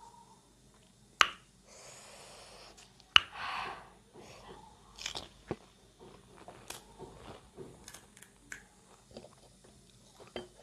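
A person eating panipuri: crisp puri shells cracking and being chewed, with two sharp cracks about one and three seconds in, a couple of short hisses between them, and many small crunching clicks after.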